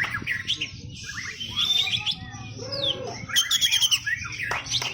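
Songbirds singing in rapid chirps, trills and whistled phrases, several voices overlapping, with a fast run of repeated notes about three and a half seconds in.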